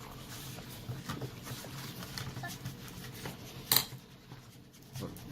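Quiet handling of slime in a bowl: faint soft clicks and rustles, with one sharp click about three and a half seconds in.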